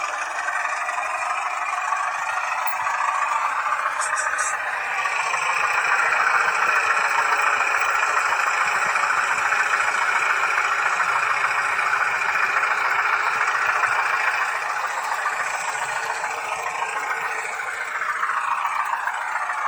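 H0-scale model Renfe Alco 313 diesel locomotive running on the track, a steady whirring rattle from its motor, gearing and wheels. There is a brief clicking about four seconds in, and the pitch glides up and down near the end.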